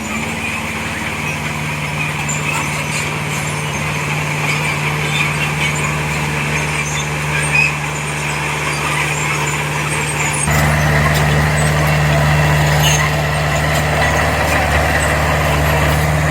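Diesel engine of heavy earthmoving machinery running steadily with a constant low hum, then getting louder about ten seconds in.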